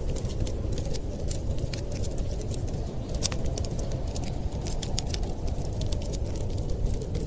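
Wood fire crackling, with frequent irregular sharp pops and snaps over a steady low rumbling noise.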